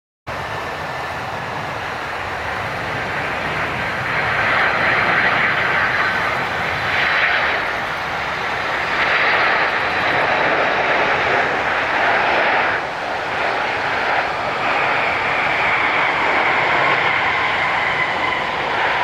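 Boeing 767 arriving to land, its jet engines giving a steady rush with a high whine that falls slowly in pitch. It grows louder over the first few seconds, then holds.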